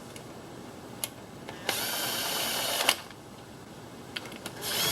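A ratchet wrench run fast in a burst of about a second, then again briefly near the end: a dense, rapid mechanical buzz.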